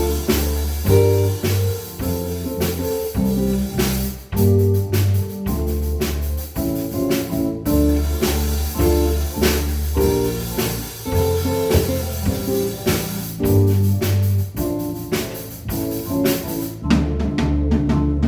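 Instrumental ensemble music with a strong bass line and a steady drum beat; the texture thickens near the end.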